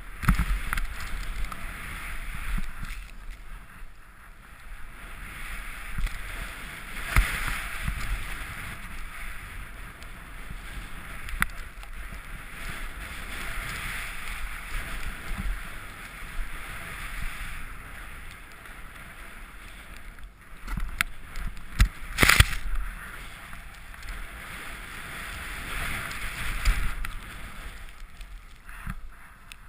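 Rushing, splashing water swelling and easing, with low wind buffeting on the microphone and a few sharp knocks; the loudest knock comes a little past the middle.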